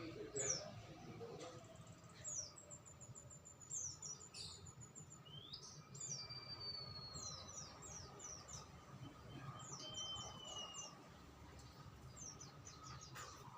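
Small songbirds chirping: quick runs of short, high chirps that fall in pitch, with a couple of longer thin whistles about six and ten seconds in.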